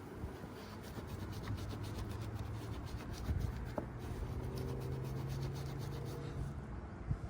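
Rapid back-and-forth scraping and scrubbing on the thermostat housing of a Yamaha four-stroke outboard, cleaning clogged deposits and old gasket residue off the surface. A faint steady low hum runs underneath while the scraping goes on.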